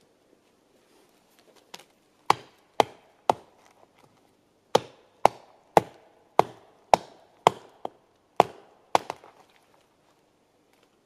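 Axe or hatchet chopping wood: about a dozen sharp strikes, roughly two a second, with a short pause after the first three.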